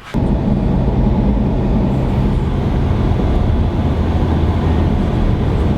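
A vehicle's engine running steadily at a constant speed under a low rumble of road noise.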